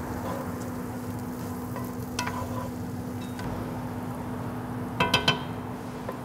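Diced onion, bell pepper and celery with tasso ham sizzling in a hot cast iron skillet as a wooden spoon stirs them, the vegetables just starting to sweat. Three quick knocks of the spoon on the pan about five seconds in.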